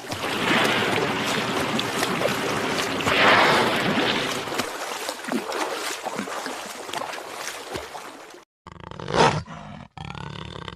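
A large wild animal's rough, noisy calls: two long ones in the first few seconds over a steady background hiss. The sound then cuts off, and a different recording begins with one short, loud call.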